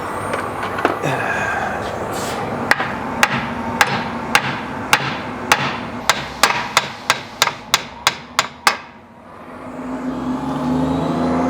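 Hammer striking metal about fifteen times, the blows coming quicker as they go, to free rust-seized rear suspension parts. A steady mechanical hum comes in near the end.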